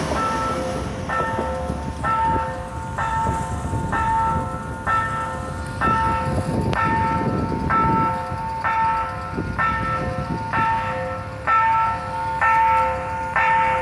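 Railroad level-crossing warning bell ringing in repeated strikes, about two a second. The rumble of a passing train dies away about halfway through.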